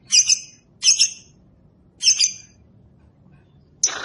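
Lovebird giving loud, high-pitched squawking calls, three separate ones spaced about a second apart. Near the end, a faster run of short chattering chirps begins.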